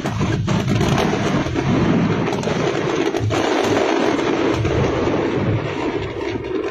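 Fireworks going off in a dense barrage: many sharp bangs over continuous crackling from bursting aerial shells.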